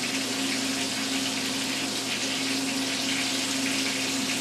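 Onions frying in a pan, a steady sizzle with a constant low hum under it.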